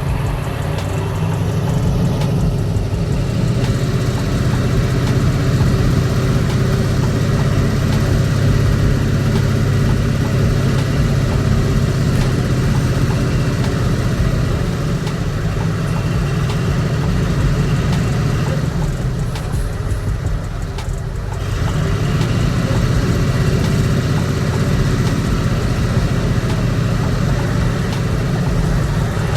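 Heavy diesel engine running steadily with a low, even hum, easing off slightly for a moment about twenty seconds in.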